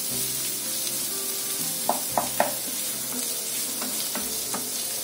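Sliced onion, green chillies, curry leaves and ginger-garlic paste sizzling in coconut oil in a nonstick frying pan, stirred with a wooden spatula. About two seconds in there are three sharp knocks of the spatula against the pan.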